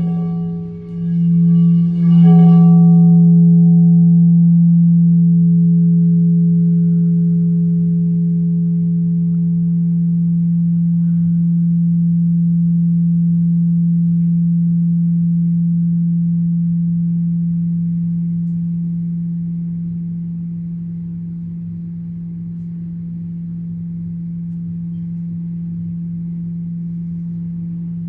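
A low, steady ringing tone with a slow wobble, struck again about two seconds in. The higher overtones from the strike fade over the next few seconds while the low tone carries on.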